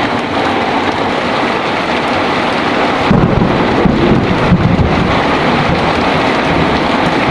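Heavy rain falling steadily, with a low rumble of thunder rising about three seconds in and fading out about two seconds later.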